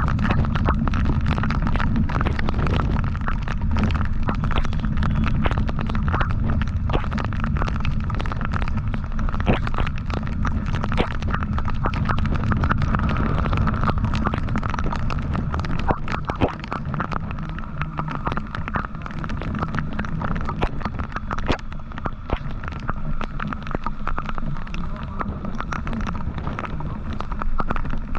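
Wind buffeting the microphone of a moving motorcycle, a steady heavy rumble with crackling pops, over the engine and road noise.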